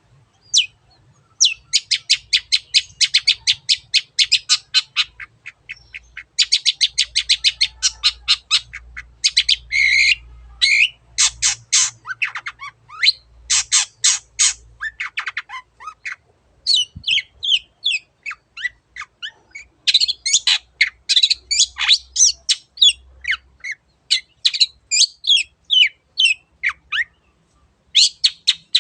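A long-tailed shrike (cendet) singing. It gives fast trills of sharp notes, several a second, then a varied run of harsh squawks and short chirping phrases.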